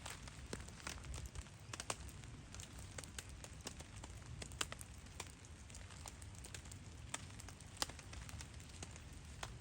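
Campfire crackling with scattered sharp pops over a steady hiss of rain.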